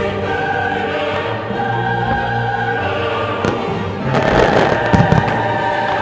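Fireworks bursting with sharp bangs, a single one about three and a half seconds in and a quick cluster of them a second later, over sustained choral music.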